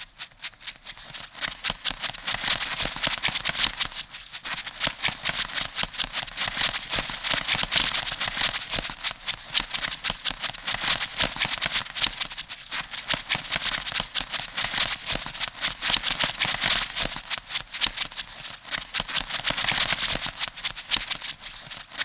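Crab sound effect: dense, rapid clicking and rattling like scuttling legs and claws, going on without a break.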